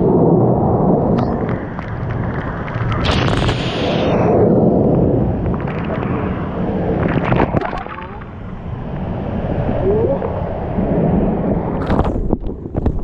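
Loud rushing of wind and water buffeting the microphone, with a few sharp knocks or splashes.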